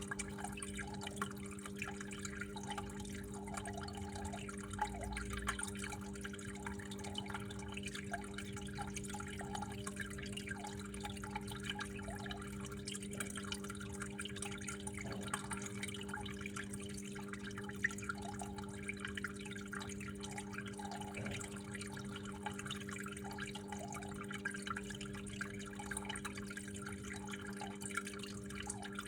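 Water flowing and dripping steadily, with small drip ticks scattered throughout, over a steady low hum.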